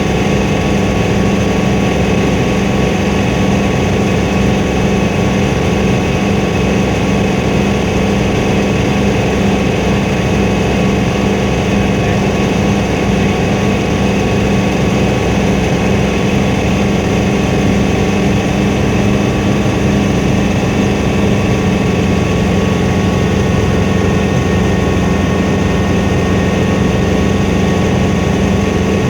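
Helicopter engine and rotor running with a steady drone, a constant low hum with a few fixed tones above it and no change in speed.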